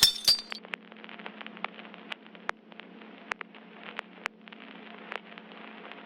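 Tableware clinking: scattered light, sharp clinks, a few a second, over a faint steady hum.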